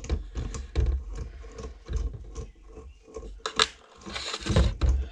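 Small metal transmission parts being taken apart by hand on a workbench: a quick run of clicks, taps and scrapes, with a sharp click about three and a half seconds in and a louder scraping rattle just after four seconds.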